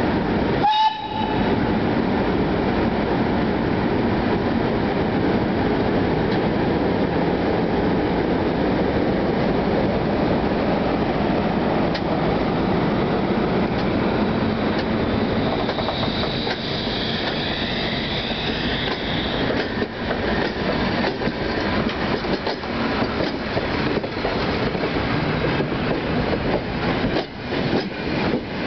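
A heritage train pulling out past the platform. The ET41 twin-unit electric locomotive runs with a loud, steady rush, and a short horn toot sounds about a second in. The hauled steam locomotives and coaches then roll by with a brief high squeal a little past halfway, and wheels clicking over rail joints more and more often toward the end.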